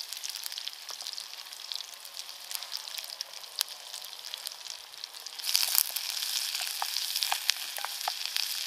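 Chopped onions frying in melted butter in a small coated metal pan over a campfire: a steady sizzle with sharp crackling pops, growing louder about five and a half seconds in.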